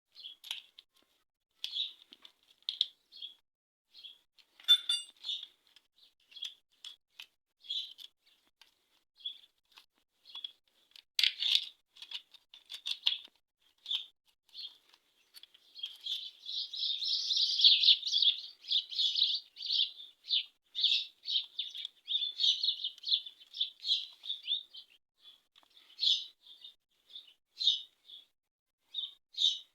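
Small birds chirping over and over in short high calls, with a denser stretch of chatter around the middle. A couple of sharp clicks come about five and eleven seconds in.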